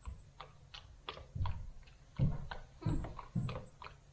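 A run of irregular knocks and clicks, some with a dull thud, about two or three a second.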